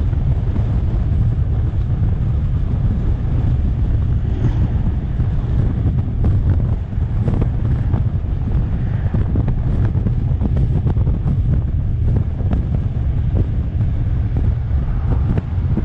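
Wind buffeting the microphone of a moving electric scooter, a steady low rumble with scattered small knocks and rattles from the ride.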